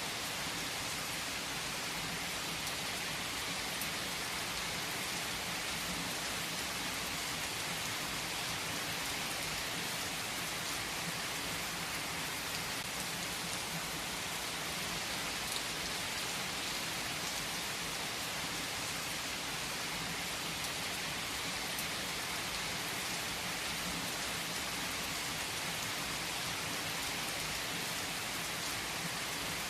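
Steady rain pattering on a surface, even and unbroken, with a few faint crackles from a fireplace fire.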